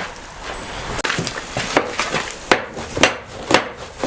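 Hand hammer blows on a hot iron bloom, dull strikes with no lasting ring, starting about a second in and settling into a steady rhythm of about two blows a second.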